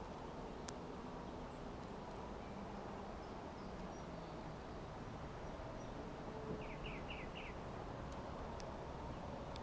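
A small songbird gives a quick series of four short, falling chirps a little past halfway through, over a steady background hiss, with a few thin high notes and faint sharp clicks.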